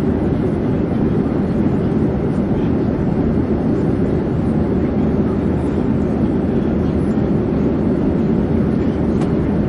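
Steady, even rumble of an airplane in flight, with most of its weight low down and no change in pitch or level.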